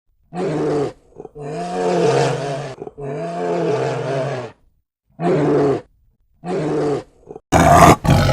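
Bear vocalizing: a series of about six drawn-out, pitched roaring calls with short pauses between, the last one louder and harsher.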